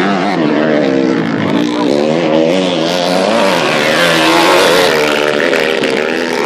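Several motocross motorcycle engines running at once, their pitch repeatedly rising and falling as the riders rev and shift.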